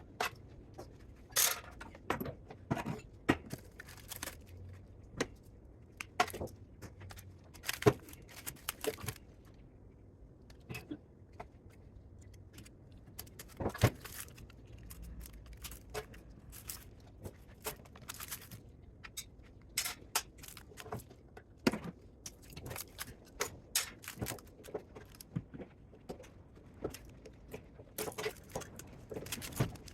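Irregular sharp metallic clinks, clanks and scrapes of hand tools and metal parts being handled while a spot welder is dismantled for scrap.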